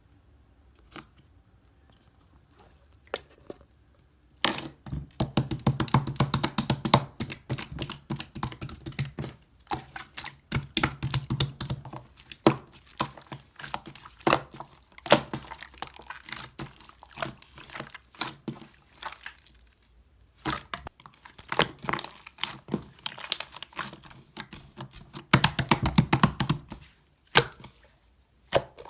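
Hands pressing and kneading slime, making rapid crackling pops and squelches as air pockets in the slime burst. It starts about four and a half seconds in and stops briefly around twenty seconds and again near the end.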